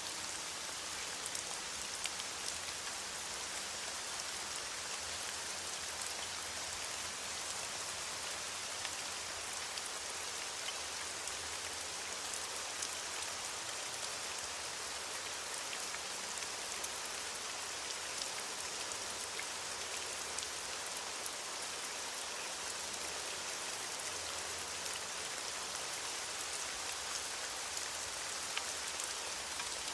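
Steady rain falling on leaves: an even hiss of many drops, with scattered individual drop ticks.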